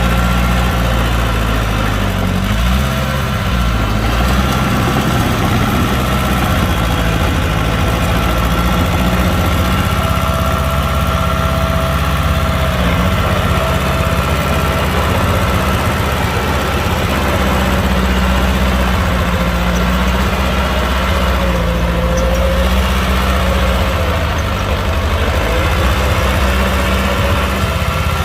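Heavy diesel engines of earthmoving machinery, a bulldozer and dump trucks, running steadily with a low drone whose pitch shifts a little now and then, and a thin steady high whine above it.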